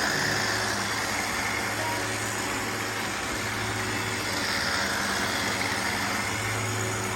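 Robot vacuums running steadily, a constant motor hum under the whir of their suction and brushes as they sweep confetti off a glass tabletop.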